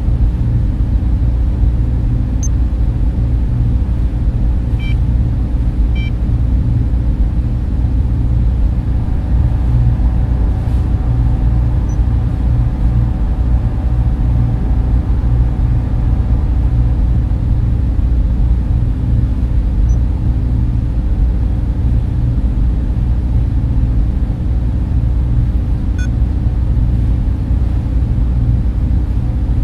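Steady low drone of a data center's server and cooling fans running, with a constant hum.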